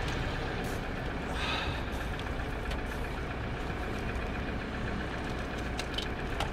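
A vehicle engine idling, a steady low rumble, with a few light clicks, some of them near the end.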